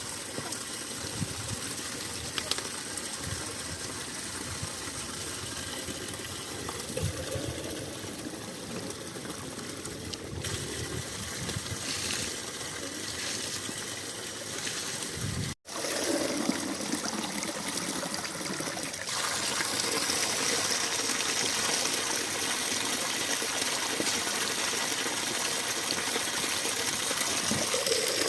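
Mountain spring water running steadily. It drops out for an instant a little past halfway, then continues slightly louder.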